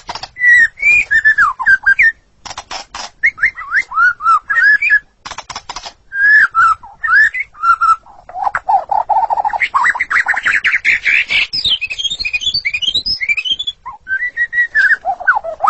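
White-rumped shama singing a long, varied song: loud whistled phrases that slide up and down, broken by bursts of sharp rapid clicks, with a fast low trill about halfway through that runs into a quick string of high notes.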